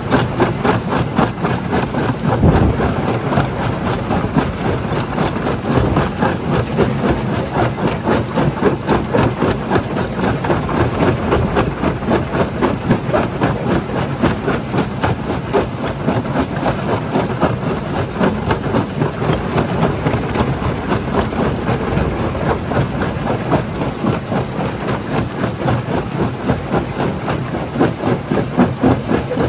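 A stone jaw crusher running and crushing rock: a loud, steady machine drone with a dense, continuous clatter of rock breaking.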